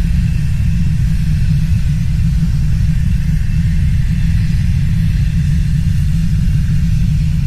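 A loud, steady deep rumble, with a faint hiss above it.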